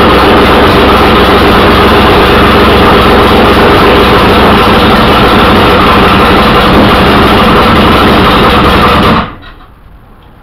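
Chevrolet Corvair air-cooled flat-six engine running loud and steady on the throttle, then shut off abruptly about nine seconds in. It is running rich, its spark plugs fuel-fouled, as the owner judges.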